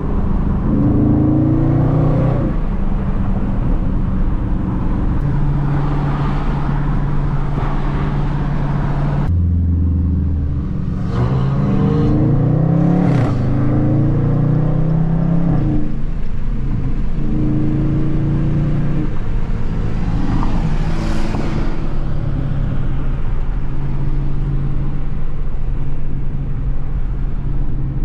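Dodge Charger Scat Pack's V8 engine running while driving at a steady cruise, with an abrupt change in the sound about nine seconds in. Shortly after, the engine revs up in rising sweeps, then settles back to a steady drone.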